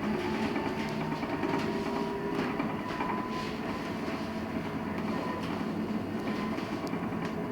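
LiAZ-6274 electric bus heard from inside the cabin while moving: a steady electric motor hum with a thin whine that rises slightly in the first second or two, over running noise and scattered small rattles.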